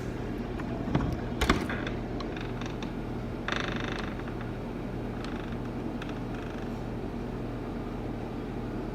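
A door creaking briefly about three and a half seconds in, after a couple of light knocks, over a steady low hum.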